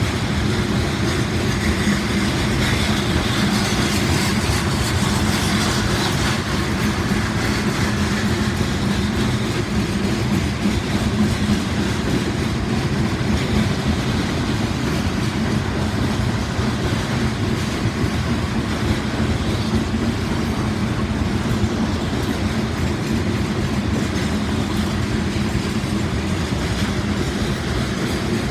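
Loaded freight cars of a trash train rolling past, a steady, unbroken rumble of steel wheels on the rails.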